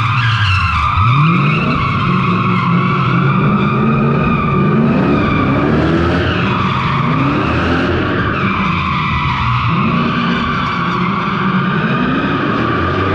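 Straight-piped V8 drift car revving up and down through repeated pulls while its tyres squeal continuously in a drift.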